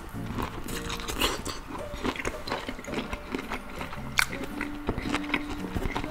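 Close-miked chewing of a mouthful of spicy Thai salmon salad, with many small wet crunches and clicks, over soft background music.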